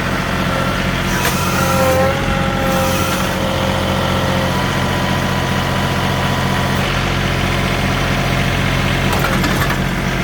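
Compact diesel tractor engine running steadily under load, with a higher steady whine over it for the first few seconds.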